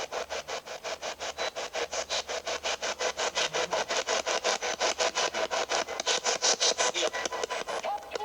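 Spirit box sweeping through radio stations: a rapid, even chop of radio static, about eight pulses a second, with no voice coming through.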